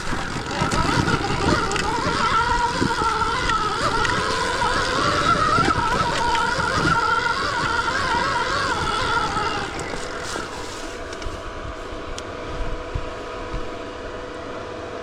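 Stark Varg electric dirt bike's motor whining, its pitch wavering up and down with the throttle, over knocks and rumble from riding rough ground. About ten seconds in it drops to a quieter, steady hum.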